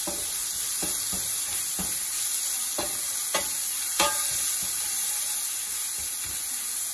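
Grated onion, ginger and garlic frying in olive oil in a pan, sizzling steadily as they are browned. The mixture is being stirred, with several sharp strokes against the pan during the first four seconds.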